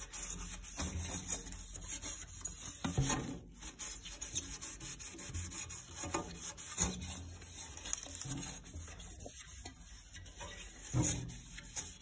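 Vinegar-dampened wood ash being scrubbed by hand over the sooty glass of a cast-iron stove door: irregular rubbing strokes, gritty and uneven.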